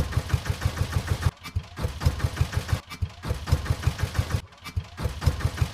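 A small engine running at idle with a rapid, even chugging beat; the sound drops out briefly three times.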